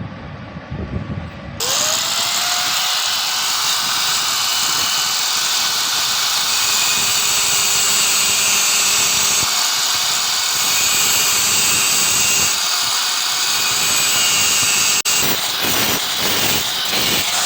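An electric power tool starts up about one and a half seconds in, its pitch rising briefly as it spins up. It then runs steadily with a dense, hissy noise, dipping for a moment near the end before carrying on.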